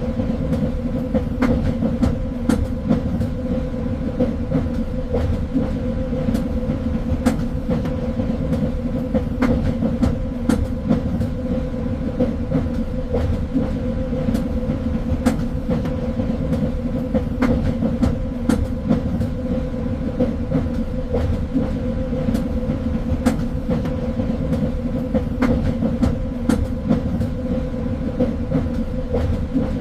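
Train running along the rails: a steady low rumble with a constant hum, broken by frequent irregular clicks and knocks of the wheels over the track.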